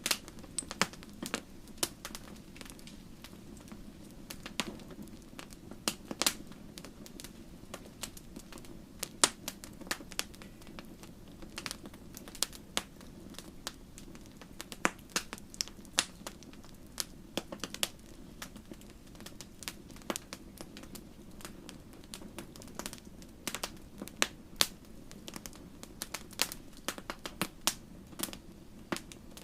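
Wood fire in a fireplace crackling and popping: irregular sharp snaps, several a second at times, over a steady low rumble of the burning fire.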